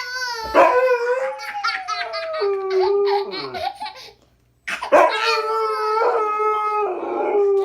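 A pet dog howling in two long, drawn-out notes, the second starting about five seconds in, mixed with a small child's laughter.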